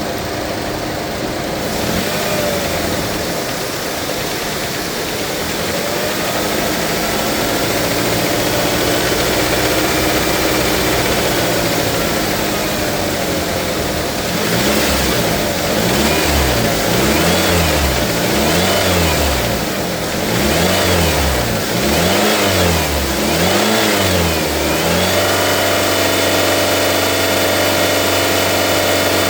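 Mazda 2.5 engine idling, then revved in a run of about six quick blips, each rising and falling in pitch, before settling back to steady running. The revs push trapped air out of the cooling system while it is being bled.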